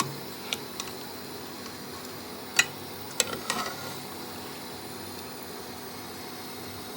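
A serving spoon clinking a handful of times against metal cookware, over a steady low hiss.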